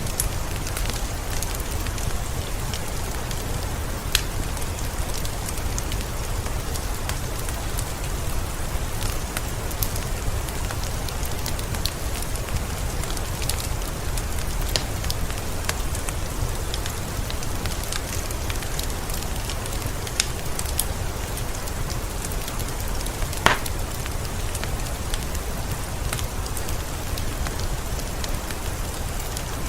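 Steady rain falling, mixed with a crackling wood fire in a fireplace that gives scattered sharp pops, one louder pop a little over three quarters of the way through.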